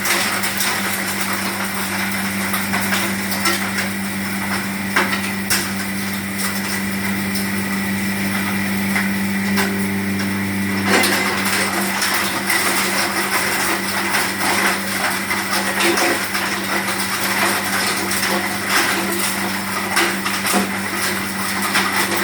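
Stone hammer mill running, a steady machine hum under a constant rattling clatter of stone being pulverised to powder. About halfway through, the clatter grows louder and busier.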